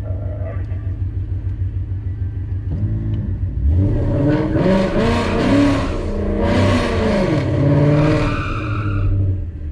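Car engine idling with a steady low pulse, then revved hard several times, its pitch climbing and falling repeatedly, before dropping back to a steady low idle about nine seconds in.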